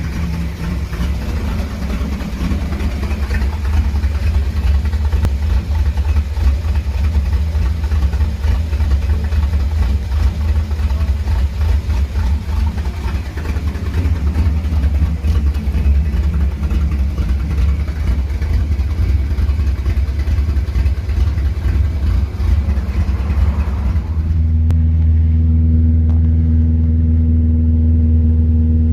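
Volkswagen AP 2.0 four-cylinder engine of a 1992 VW Parati GLS, naturally aspirated with a 288° camshaft, an Opala 3E carburettor and a 4-into-1 header, running on ethanol with a choppy, pulsing note. About 24 seconds in the sound turns steadier and more even in pitch.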